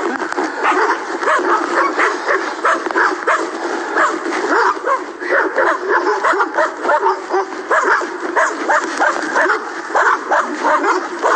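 Dogs barking over and over in a dense, unbroken run, barking at a passing cyclist.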